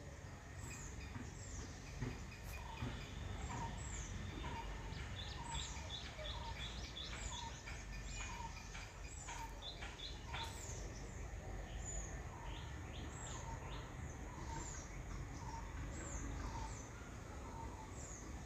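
Birds calling: a high, short chirp that falls in pitch, repeated about once a second, with lower short notes in the same rhythm, over a steady low rumble.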